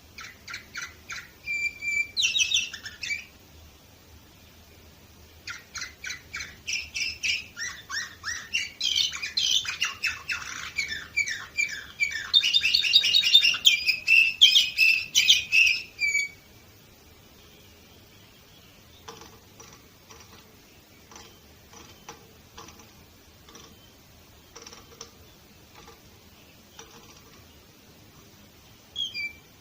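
Domestic canary singing: a short phrase, then a long song of rapid trills and fast repeated notes lasting about ten seconds. Its end is followed by only faint scattered ticks and soft notes, and one brief call near the end.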